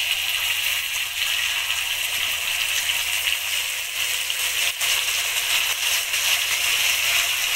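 Tomato paste frying in hot oil with onions in a wok: a steady sizzle.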